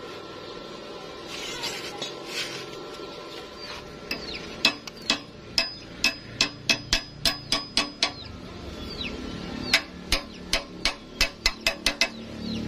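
A hammer striking metal over and over, about three or four blows a second, in two runs with a short pause between them.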